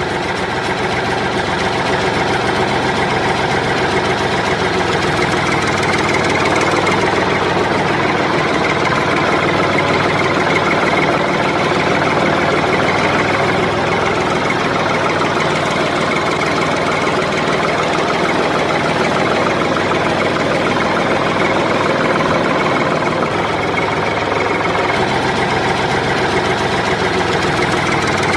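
An engine idling steadily, with a fast even knock to it.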